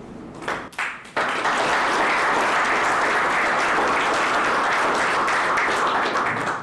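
Audience applauding, starting about a second in, holding steady, and breaking off suddenly near the end.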